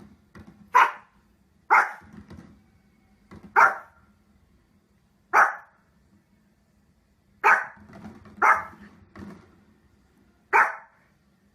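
A dog barking: about seven single, sharp barks at uneven intervals, with quieter sounds between them.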